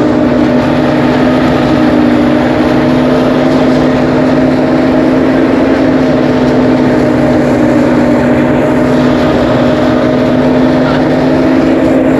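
An engine running steadily at constant speed, giving an unbroken hum.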